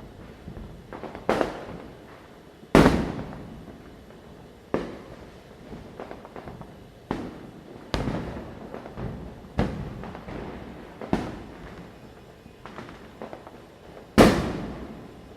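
Firecrackers bursting at irregular intervals, about a dozen sharp bangs each with an echoing tail. The two loudest come about three seconds in and near the end.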